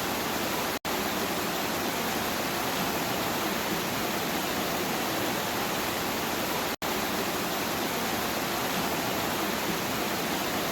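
Steady rain, an even hiss with no thunder, that cuts out for an instant twice: about a second in and again near seven seconds.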